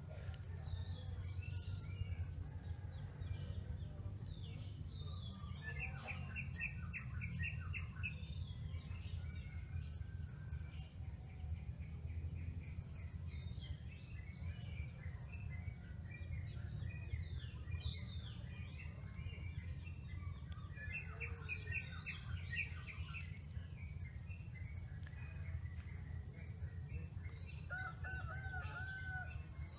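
Small birds chirping and trilling on and off, over a steady low rumble. Near the end a lower, repeated arching call begins.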